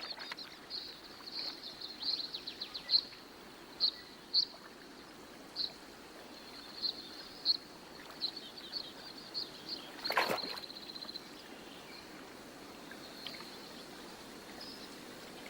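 Small birds chirping with short high calls and a few quick trills over a faint steady outdoor hiss; about ten seconds in comes one brief, louder noise.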